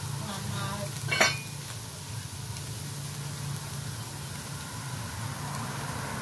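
Food sizzling steadily in a large aluminium stockpot, with a steady low hum beneath and one sharp click about a second in.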